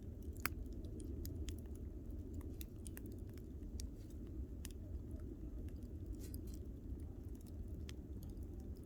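Wood campfire burning, with irregular crackles and pops of the burning wood over a steady low rumble.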